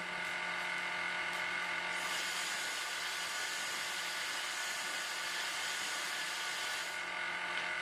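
High-speed plasma hair dryer running steadily: an airflow hiss with a faint motor hum and whine. The hiss gets brighter about two seconds in and eases again near the end.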